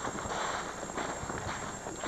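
Footsteps of people walking, a step about every half second, over a steady rushing background noise.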